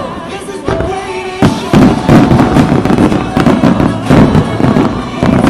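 Aerial fireworks bursting in quick succession, dense bangs and crackle over background music; sparser and quieter for the first second and a half, then a continuous barrage.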